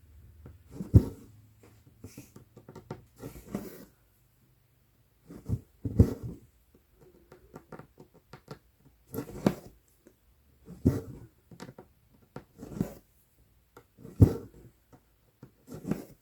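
Cross-stitch needle stabbing through Aida fabric and embroidery floss being drawn through, a short scratchy pull with a soft thud every second or two.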